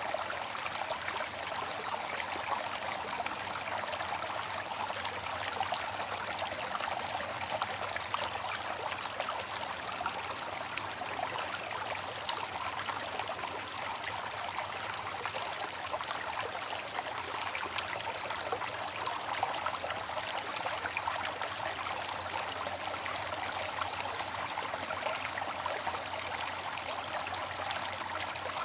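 Water fountain running: a steady splashing trickle of falling water.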